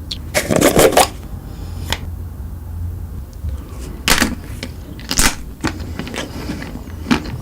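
Crunchy bites into chocolate treats: a quick cluster of crunches in the first second, then single crunches about four, five and seven seconds in, over a low steady hum.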